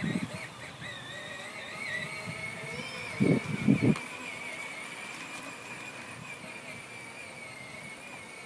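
Whine of the 12-volt electric drive motor of a Peg Perego John Deere ride-on toy tractor, holding a steady pitch. A few loud low thumps come about three seconds in.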